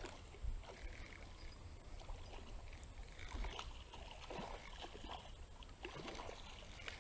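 Faint sloshing and splashing of shallow creek water, a few small splashes standing out, over a steady low rumble on the microphone.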